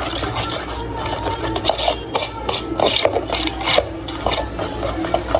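A utensil stirring thick batter in a bowl: irregular scraping and rubbing strokes against the bowl.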